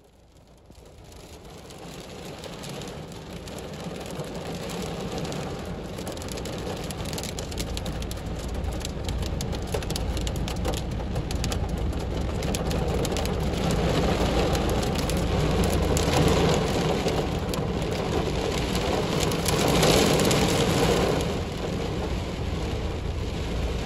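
Heavy rain drumming on a car's roof and windshield, heard from inside the car: dense drop hits that swell over the first few seconds and then stay loud.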